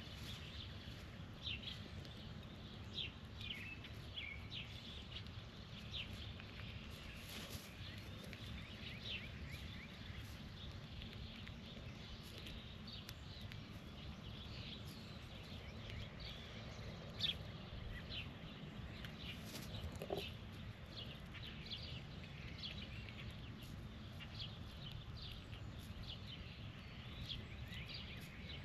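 Birds chirping in short, quick calls, scattered throughout, over a steady low rumble.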